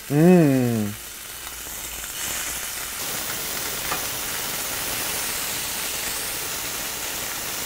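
Chicken breast cutlets searing in hot olive oil in a stainless steel skillet: a steady sizzle.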